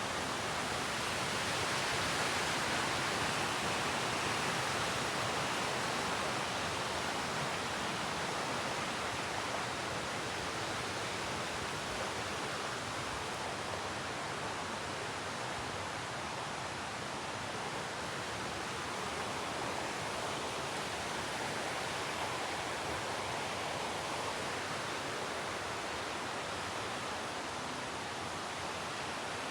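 Rushing water of a waterfall-fed mountain creek, a steady, even rush.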